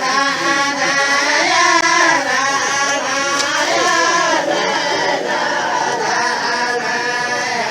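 A group of voices chanting a traditional Khawlan tribal chant (tarq) together, the melody drawn out and overlapping.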